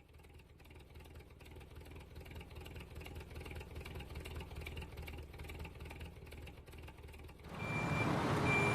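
A small motor or engine running steadily with a fast regular pulse, slowly getting louder. Near the end a louder rushing noise takes over, with short high beeps like a reversing alarm.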